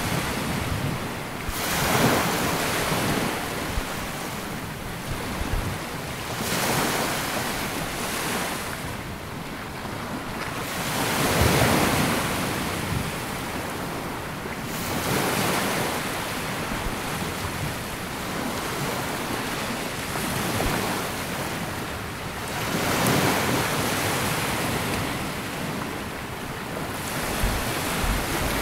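Small sea waves breaking and washing up a sandy beach, swelling and ebbing every few seconds, with wind buffeting the microphone.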